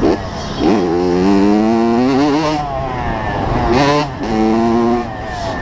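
85cc two-stroke motocross bike engine revving under throttle: the pitch climbs and holds, drops off, then the throttle opens twice more.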